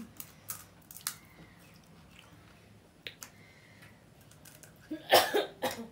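Close-up eating sounds of pani puri: scattered small crisp clicks and crunches of puri shells being chewed and handled. Near the end comes a louder cluster of crunching with a short voice-like sound.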